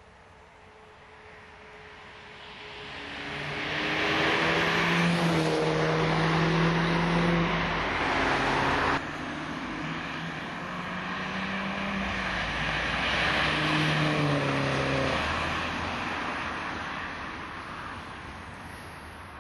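R56 Mini Cooper S's turbocharged four-cylinder engine running through a John Cooper Works exhaust rear silencer, accelerating hard through the gears. The exhaust note rises and falls in steps with each gear change and grows loud, drops abruptly about nine seconds in, then swells again and fades away.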